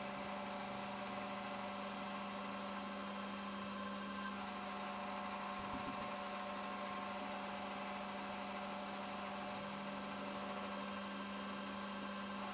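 Metal lathe running with a steady hum while it turns a lead-in chamfer for the seal on a steel diff yoke.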